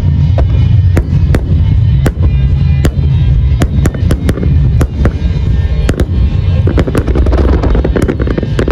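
Massed aerial fireworks barrage: many sharp shell bursts in quick succession over a continuous deep rumble, with music playing underneath.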